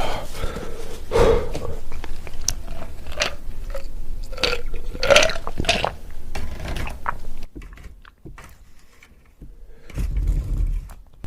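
Close-miked chewing and crunching of spicy coated peanuts, with wet mouth clicks and a couple of short throaty sounds. The chewing quiets for about two seconds near the end.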